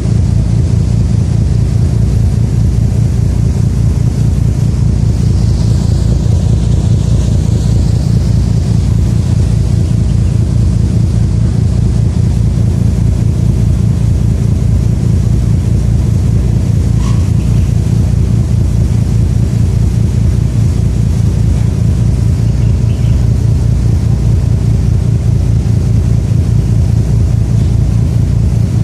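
Engine running steadily at an even speed, a loud, constant low rumble.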